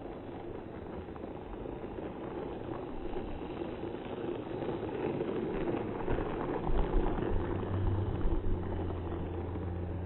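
Battery-powered Thomas & Friends toy train running along its track: a steady rumbling whir that grows louder, with a low steady hum joining about two-thirds of the way through.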